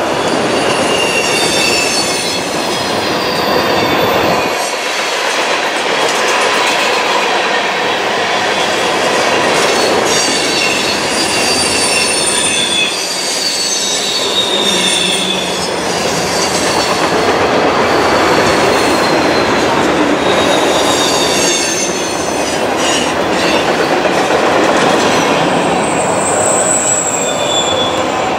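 Norfolk Southern freight train rolling past close by: a steady rumble and rattle of tank cars, covered hoppers and autorack cars on the rails, with high wheel squeals that come and go, each sliding slightly down in pitch.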